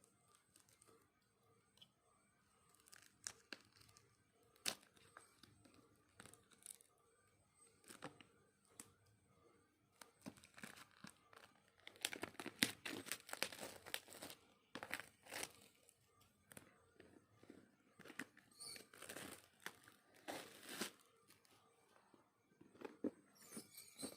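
Packaging being torn open and crinkled by hand. Scattered light taps and rustles come first, then two longer spells of tearing and crinkling, one around the middle and another a few seconds later.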